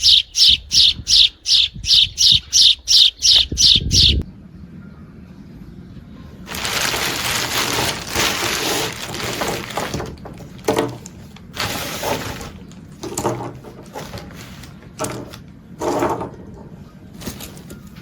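A bird chirping rapidly in a steady run of loud, high-pitched chirps, about three to four a second, which stops about four seconds in. After a short lull comes a series of noisy hissing bursts of uncertain source.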